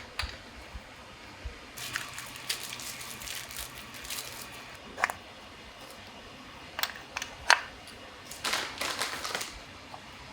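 Scattered sharp clicks and light knocks of metal parts and hand tools being handled during engine assembly, the loudest click about two-thirds of the way through. Two stretches of scraping and rustling come in between them.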